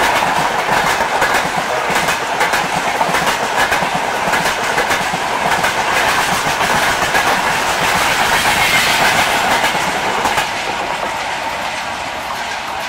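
Express train's passenger coaches passing at speed close by, wheels clattering rapidly over the rail joints, fading near the end as the last coach goes by.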